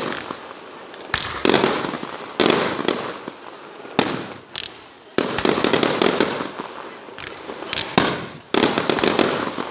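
Fireworks going off in a rapid series of sharp bangs, about seven in all, each followed by dense crackling that dies away over a second or so.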